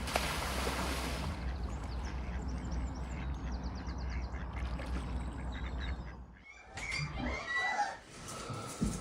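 An animal's short calls, quack-like, over a steady low hum, coming about seven seconds in.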